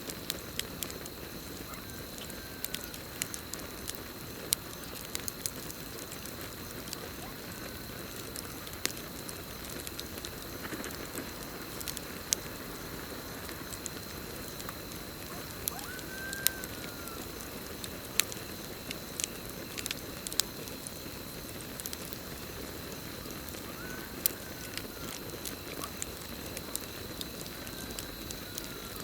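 Campfire crackling, with irregular sharp pops of burning wood over a low steady rush of flames. A steady high cricket trill runs underneath, and a few short rise-and-fall calls from some animal sound several times.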